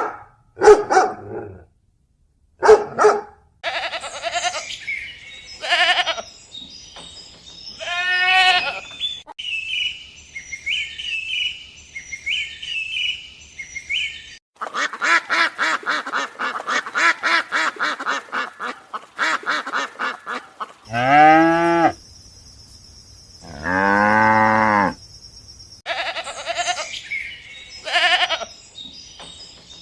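Farm animals calling in a string of separate recordings: short cries, a run of rapid pulsing calls in the middle, then two long, deep calls about three-quarters of the way through.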